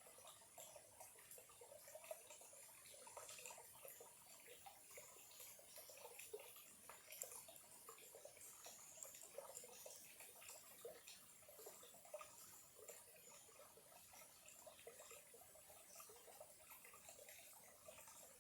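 Small, clear stream trickling faintly, with many quick little watery blips.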